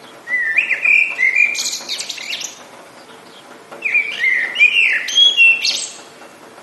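A songbird singing two phrases of sliding whistled notes followed by quick high trills, with a pause of about a second between them.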